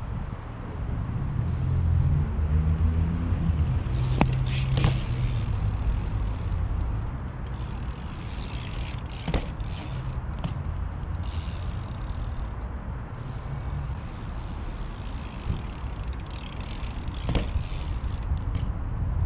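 Steady low outdoor rumble with a motor vehicle passing, its engine hum strongest in the first few seconds, and a few single sharp knocks, about four, five, nine and seventeen seconds in.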